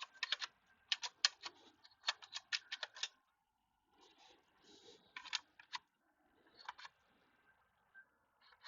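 Rapid run of light, sharp clicks for about three seconds, then a pause and a few scattered clicks.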